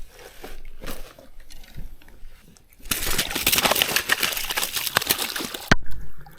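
A hooked Murray cod splashing and thrashing at the water's surface during the fight, a dense spell of splashing starting about three seconds in and ending with a sharp knock.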